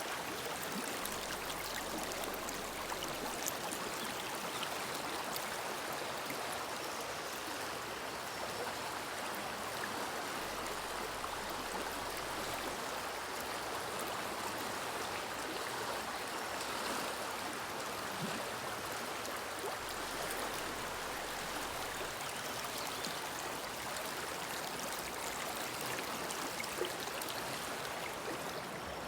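Woodland river flowing: a steady, even rush of running water.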